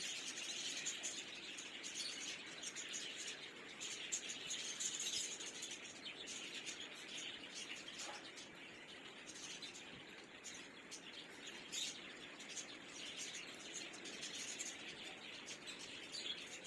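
A flock of caged birds chirping and chattering together, faint and continuous, with many short calls overlapping.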